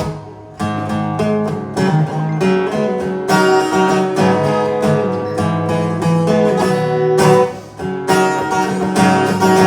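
Acoustic guitar strummed in a rhythmic chord pattern between sung verses of a song, with two brief pauses, one just after the start and one about seven and a half seconds in.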